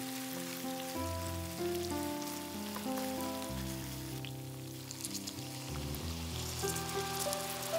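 Chicken wings sizzling and crackling in a hot cast-iron pan under background instrumental music. The crackle grows denser near the end as cola is poured into the pan.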